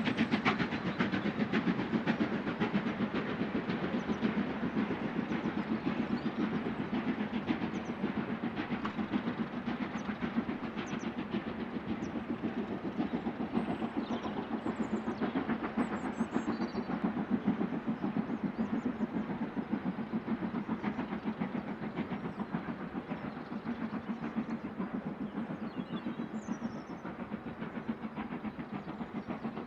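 Steam-hauled heritage train running along the line, a steady dense rattle that slowly fades as it draws away.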